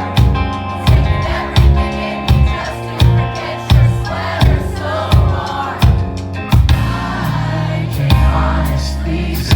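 Alternative rock band playing live: a drum kit hits a steady beat about every 0.7 seconds over bass and guitar, with singing.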